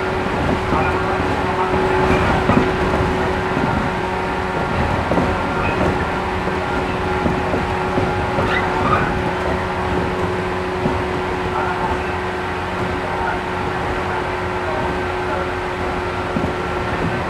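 Inside the carriage of a 113 series 1500 subseries electric train (resistance-controlled EMU) running along the line: steady rumble of wheels on rail with a steady-pitched hum from the running gear, the speed holding constant.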